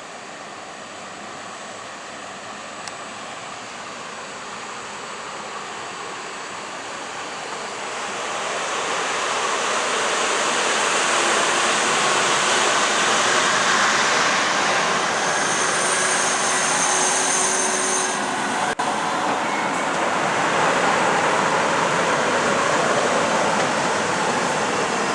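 A train on the tracks, its rail noise swelling over the first ten seconds and then staying loud and steady. For about three seconds around the middle, a high thin squeal of the wheels sounds over it.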